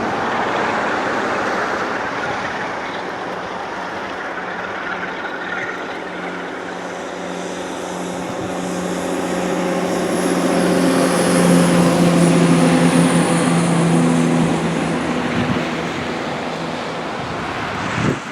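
Diesel train passing: a steady rush of wheel and air noise, with the engine's hum building to its loudest about twelve seconds in and then fading, before the sound cuts off abruptly at the end.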